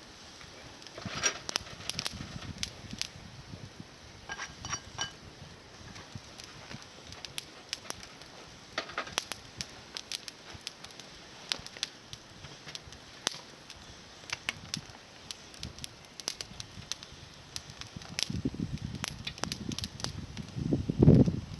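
Campfire of small climbing-rose twigs crackling, with sharp, irregular pops scattered throughout. A louder low rustling builds near the end.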